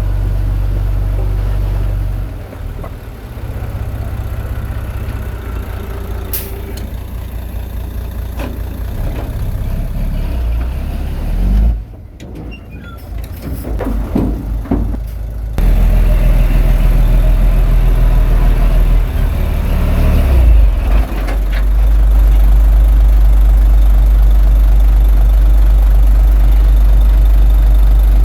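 Heavy diesel machinery engine running, its level shifting several times: it drops about two seconds in and goes quieter for a few seconds near the middle, then runs loud and steady through the second half.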